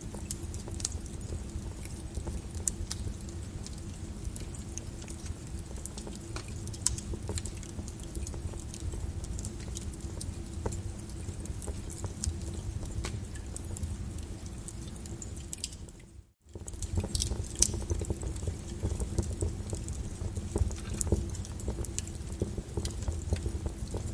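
Wood fire crackling with sharp irregular pops over a steady hiss of rain on a window. The sound dips almost to silence for a moment about 16 seconds in, then comes straight back.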